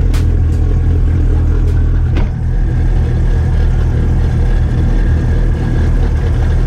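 Twin-turbo Dodge Viper V10 running steadily, a deep continuous rumble. A few sharp clicks come in the first couple of seconds.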